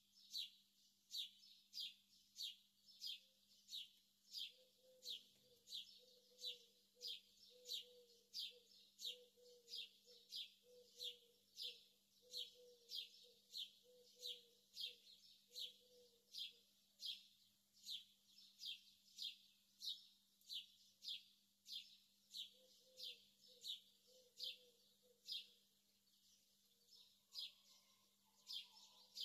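A small bird chirping over and over in an even rhythm, about three short, high, falling chirps every two seconds, faint.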